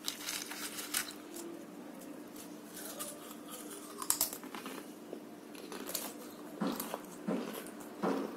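Crisp papdi gathiya (fried gram-flour strips) bitten with a sharp crunch about four seconds in, then chewed in short crunchy strokes, over a steady faint hum.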